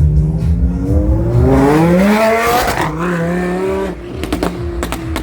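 A supercar engine revving: the pitch climbs for about a second and a half to a sharp peak, then falls back and holds briefly before cutting off, followed by a few sharp cracks near the end, over background music with a steady beat.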